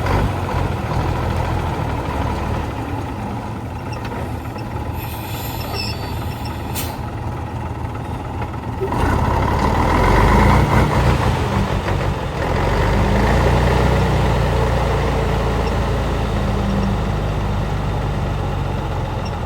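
Heavy truck engine running under load, getting louder about halfway through and again a little later as it works harder. There is a brief hiss near the middle.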